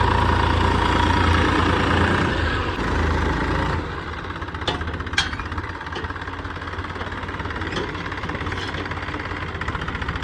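Tractor engine running steadily at idle. The sound drops in level about four seconds in, and a couple of sharp clicks follow.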